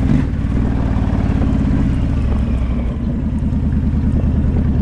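Motorcycle engine running steadily at low speed, a rapid even exhaust pulse.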